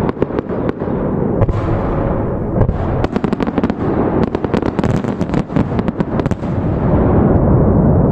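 Aerial fireworks shells bursting in quick succession, a dense barrage of sharp cracks and crackle. About seven seconds in it gives way to a continuous low rolling rumble of booms.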